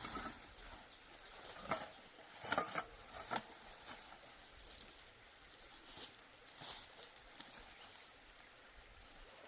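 Irregular rustling with a few sharp knocks, clustered about two to three seconds in and again near the middle.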